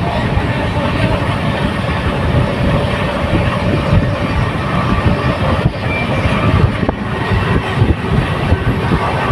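A train running along the track: a steady, loud mechanical noise heavy in the low end, with no clear beat.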